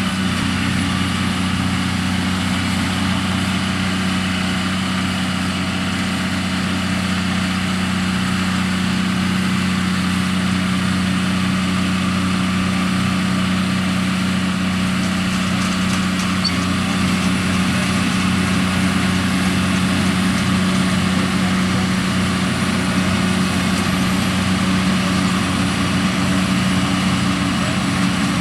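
John Deere 7R tractor's diesel engine running at a steady pitch while it pulls a twin-row potato harvester through the field, getting slightly louder about halfway through.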